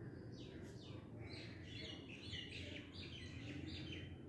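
Small birds chirping: a quick run of short, high chirps, faint over low steady background noise.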